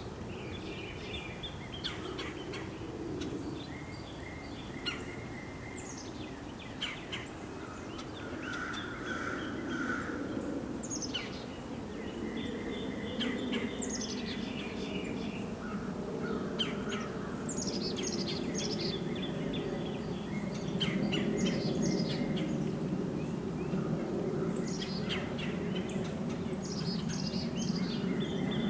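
Small birds chirping and calling again and again, many of the chirps quick downward sweeps, over a low steady rumble that grows louder in the second half.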